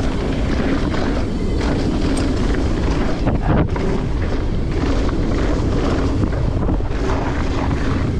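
A Pivot Switchblade mountain bike rolling fast down a rocky dirt trail: steady tyre rumble and rattle of the bike over stones, with wind buffeting the microphone.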